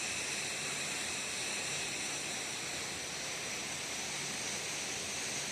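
Steady rush of flowing water from a creek or falls, an even hiss-like noise that holds at the same level throughout.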